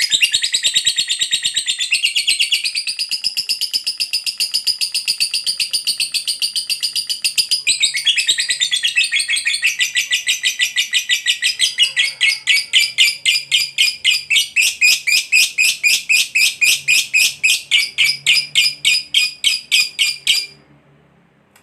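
A lovebird's ngekek panjang: one long, unbroken, high-pitched chattering trill of rapidly repeated notes. The notes come faster at first, settle to about four or five a second, then stop abruptly near the end.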